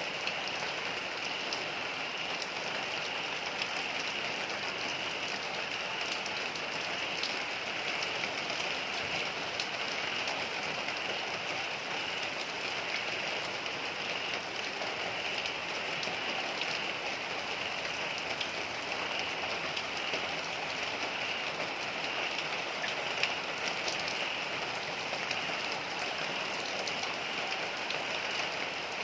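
Heavy rain falling steadily, a dense even hiss of rain with the fine patter of drops striking surfaces.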